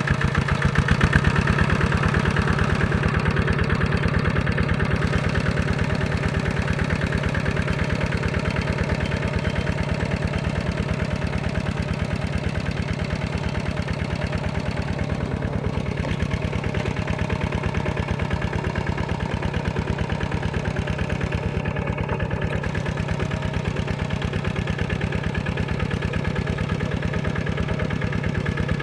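Tractor diesel engine running steadily, with rapid, even firing pulses and a brief swell about a second in.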